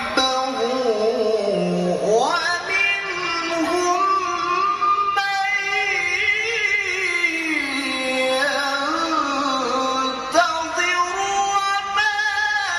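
A male qari reciting the Quran in a high, melodic, chanted style. His one voice holds long ornamented phrases, sweeping sharply up in pitch about two seconds in and starting a new phrase near the end.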